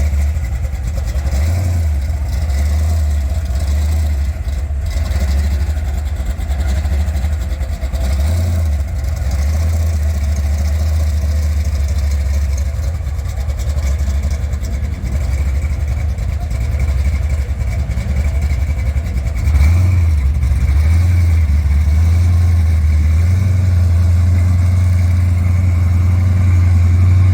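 A car engine running with a steady, deep rumble, growing a little louder about twenty seconds in.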